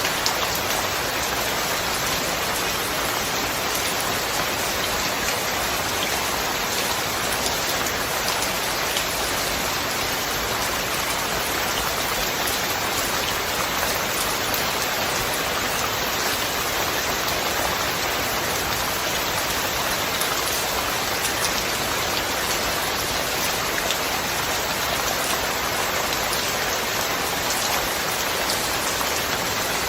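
Steady rain falling, an even wash of many drops with no thunder.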